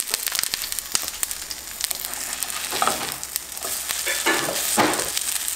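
Breadcrumb-coated potato and green bean patties sizzling and crackling in oil in a nonstick frying pan, while a spatula scrapes under them and turns them over, a few times from about three seconds in.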